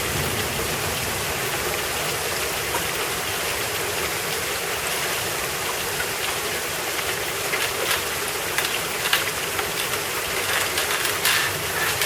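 Steady rain falling, with a few short sharp taps of drops in the second half.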